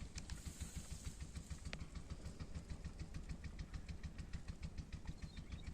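Old Petter diesel engine of a tubewell water-pump set running at a steady idle, its firing strokes beating in an even rhythm.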